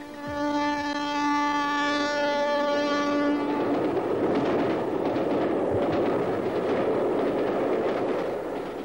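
Electric express train sounding one steady horn note for about three and a half seconds, then the noise of the train running past, fading near the end.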